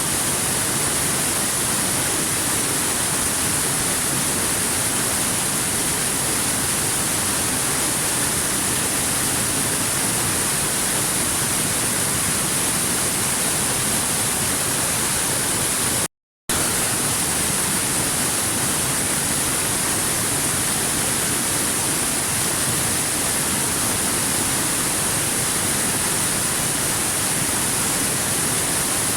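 Steady, even rushing of a waterfall, with a strong hiss in the high range. It cuts out to silence for a split second about sixteen seconds in, then resumes unchanged.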